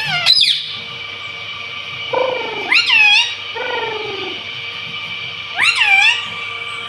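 Indian ringneck parrot calling: short squawks that sweep up and down in pitch, in small groups near the start, around two to four seconds in, and again near six seconds.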